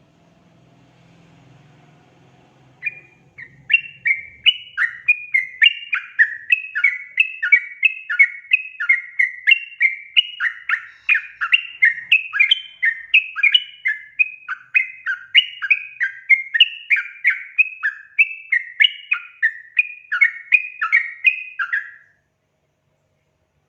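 Yellow-vented bulbul (trucukan) singing a long, fast run of short bubbly chattering notes, about two to three a second, starting about three seconds in and stopping abruptly near the end.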